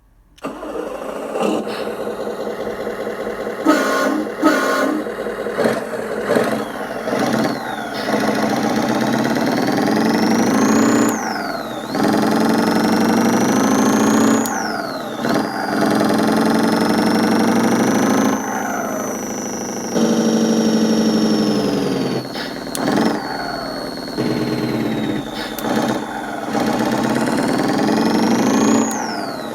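Synthesized Scania V8 open-pipe truck engine sound from a DIY ESP32 RC sound controller: the engine starts about half a second in and idles. A horn sounds twice about four seconds in, then the engine revs up and down several times, its pitch climbing and dropping sharply as if shifting gears.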